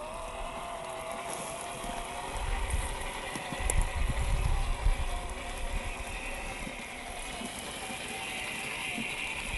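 Electric motor and gearbox of a WPL B36 RC model Ural 6x6 truck whining steadily as it drives, the pitch wavering slightly with speed. Low rumbling buffets come a few seconds in.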